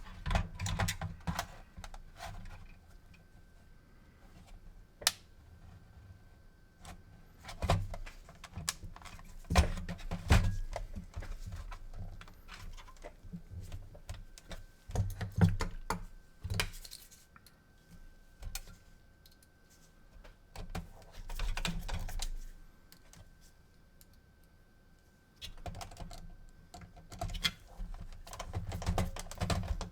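Irregular clicks, taps and light rattles of small plastic and metal console parts being handled on a workbench, in busy clusters with quieter gaps, over a faint steady high hum.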